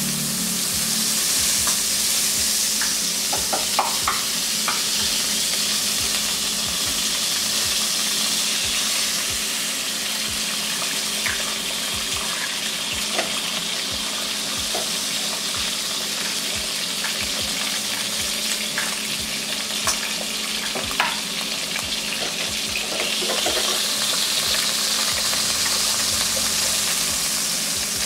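Butter sizzling in a hot non-stick wok, with an egg frying in it: a steady crackle, broken now and then by a few light clicks.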